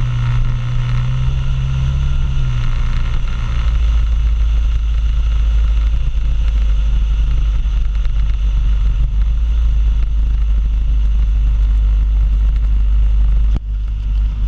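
Suzuki Burgman 650 scooter under way at road speed: a steady engine hum under heavy low wind rumble on the microphone. The engine note drops a little about two and a half seconds in, and the noise dips briefly near the end.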